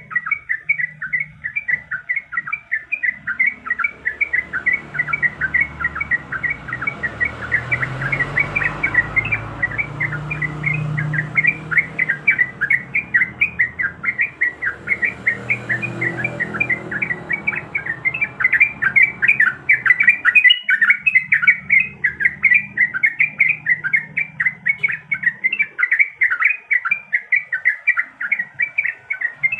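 Yellow-vented bulbul (trucukan) singing continuously: a fast, unbroken run of short, bright chirping notes, about four or five a second, in the lively 'gacor' song used to draw other bulbuls.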